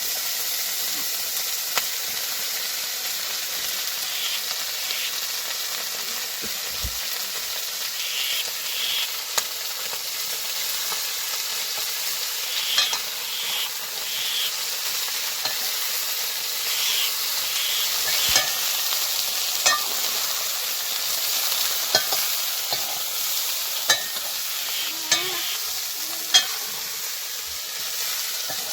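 Food sizzling as it fries in a pan, a steady hiss, while it is stirred with a utensil that scrapes and taps against the pan. The taps come more often in the second half.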